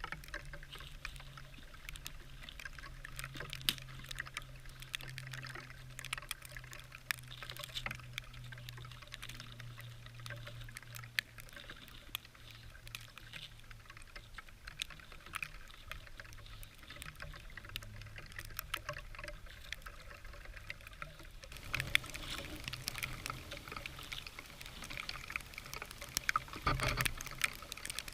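Birch bark being peeled and torn off a dead tree by hand, an irregular crackling and rustling that grows louder about three quarters of the way through.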